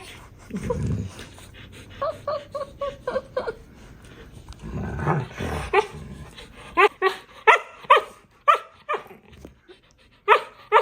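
Two dogs, a puppy and an older dog, play-fighting: a run of short high barks and yips, coming quickly one after another in the second half.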